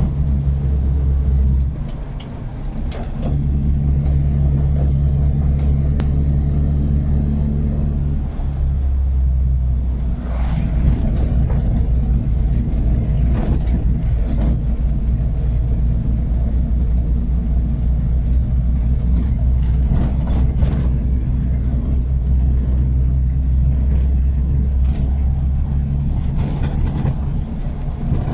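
Old Suzuki Katana's engine pulling up a steep climb, a steady low drone that drops briefly about two seconds in, then holds. Occasional short knocks and rattles sound over it.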